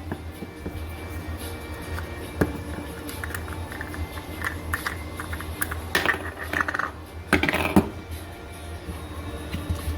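Scattered clicks and light knocks of plastic parts being handled, with two louder scratchy rustles of packaging about six and seven and a half seconds in, over a steady low hum.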